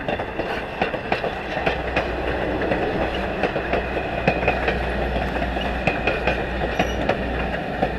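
A passenger coach rolling along jointed track: steady low rumble with irregular clicks and clacks from the wheels over rail joints.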